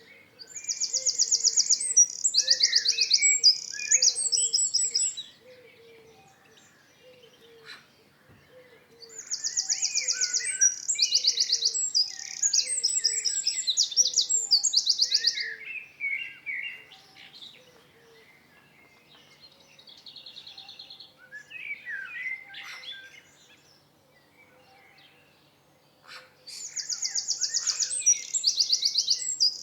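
A songbird singing loud phrases of fast, high trills, three times: at the start, about nine seconds in, and again near the end. Softer calls and a faint, regular chirping fill the gaps between.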